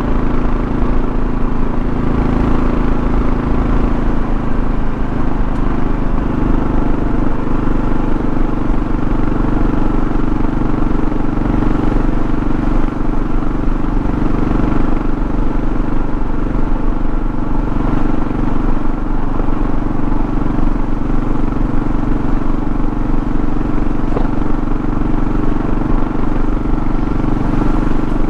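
2024 Kawasaki KLR650's single-cylinder engine running at a steady cruising pace, with wind and road noise.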